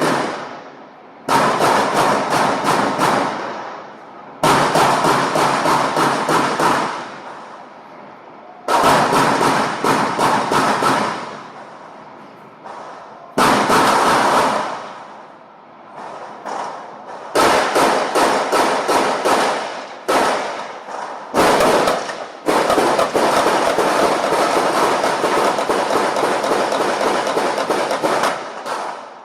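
Repeated bursts of rapid crackling pops, each starting suddenly and dying away over a second or two, like strings of firecrackers going off. About ten bursts come, and the last one keeps going for several seconds.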